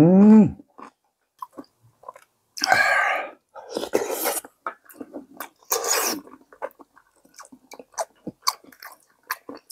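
Close-up mouth sounds of eating sujebi in soup: chewing with many small wet smacks and clicks, and three louder breathy bursts about three, four and six seconds in. A short hum right at the start.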